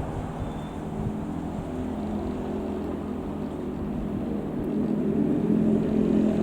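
Piper PA-28-180 Cherokee's four-cylinder Lycoming piston engine running steadily, growing louder over the last couple of seconds.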